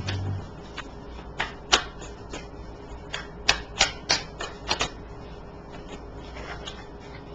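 Tarot cards being handled on a table: a run of about ten sharp clicks and taps spread over a few seconds.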